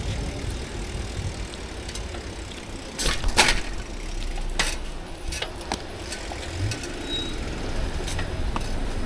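Bicycle ride: a steady low rumble of wind on the microphone and tyres on the path, with a few sharp clacks and rattles, the loudest pair about three seconds in.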